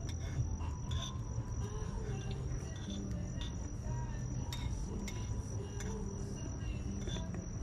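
A wood bonfire crackling, with irregular sharp pops and snaps, over a steady high-pitched tone and a low background rumble.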